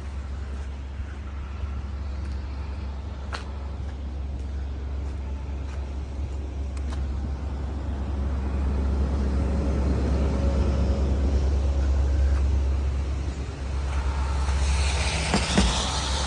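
Road traffic passing on a street: a steady low rumble that grows louder toward the middle, then a rising hiss near the end as a vehicle goes by.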